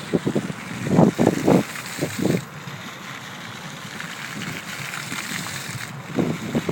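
Public fountain's water jets splashing steadily, with several low gusts of wind noise hitting the microphone.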